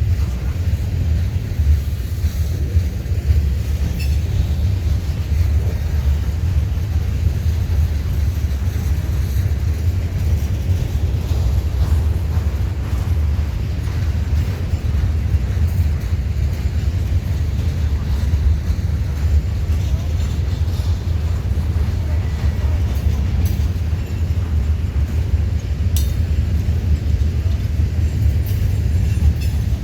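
Freight train rolling past, a steady low rumble of wheels on rail with a few sharp clanks.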